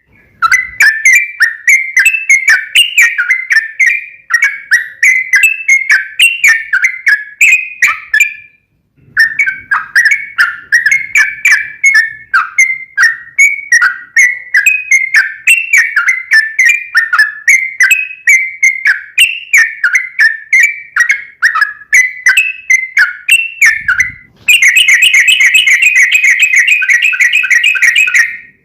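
Yellow-vented bulbul (trucukan) song: a long run of quick, bubbly chirping phrases repeated one after another, breaking off for a moment about a third of the way in. Near the end it changes to a fast, unbroken trill.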